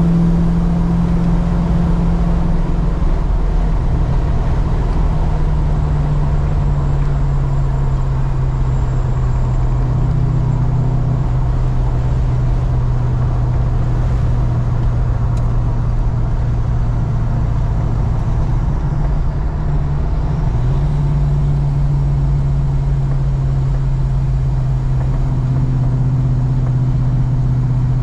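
Holden Commodore engine running under way while the car is driven to run in the engine, a steady drone over road noise whose pitch steps down about three seconds in and back up twice later as the road speed changes.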